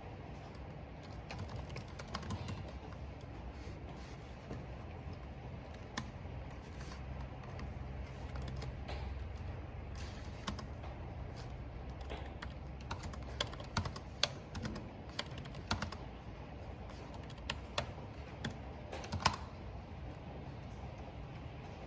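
Typing on a computer keyboard: irregular keystrokes, some in quick runs, over a steady low rush of wind and rain.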